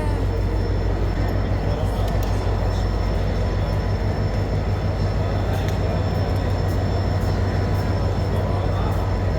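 Steady low rumble and hum inside a moving rail carriage, with a few faint clicks.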